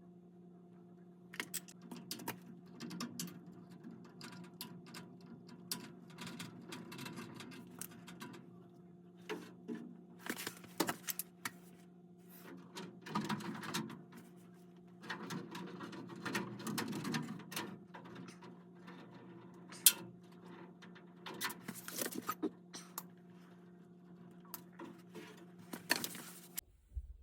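Hands working on equipment, with scattered clicks, knocks and rustling scrapes, over a steady low hum that cuts off suddenly near the end.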